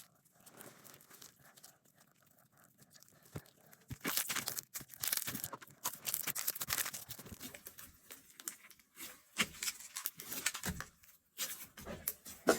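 Slime being stretched and squeezed by hand, giving a run of small crackles and pops. It is quiet at first and gets louder from about four seconds in.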